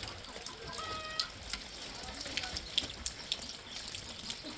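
Running water with light clicks and knocks scattered through it.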